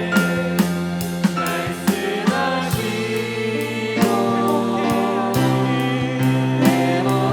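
Congregational praise song: a worship band playing sustained chords over a steady beat, with group singing.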